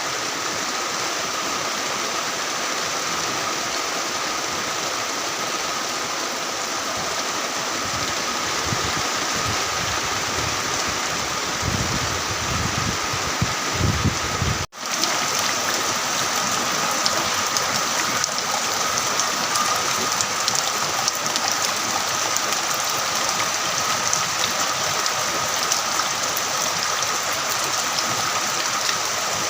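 Heavy rain falling steadily, a dense even hiss. It breaks off for an instant about halfway through, then carries on.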